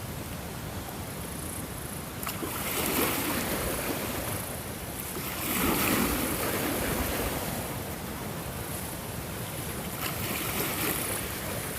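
Ocean waves breaking and washing ashore in slow swells of surf, the loudest about halfway through.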